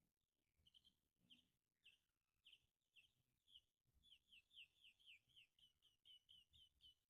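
A small songbird singing faintly: a run of short, high, down-slurred chirps that start slowly and speed up into a quick series.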